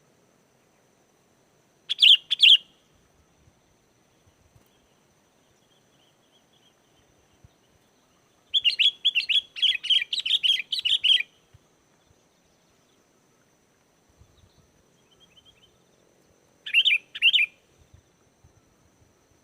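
Sooty-headed bulbul (kutilang) singing: a short two-note phrase about two seconds in, a quick run of chirping notes lasting about two and a half seconds in the middle, and another two-note phrase near the end.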